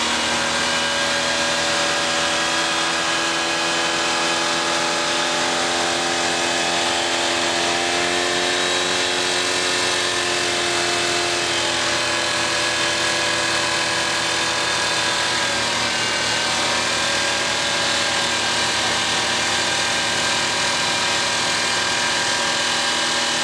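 GMC truck engine treated with Zak engine additive, running at high, steady revs near wide open throttle and still running strong. Its pitch drifts slightly up and back down about halfway through.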